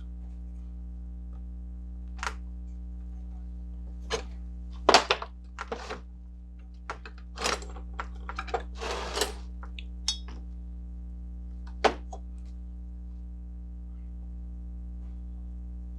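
Scattered knocks, clicks and clinks of hand tools and metal Crosley water-pump parts being handled while greased packing rings are fitted into the pump. There are about ten separate sounds, the loudest about five seconds in, over a steady low hum.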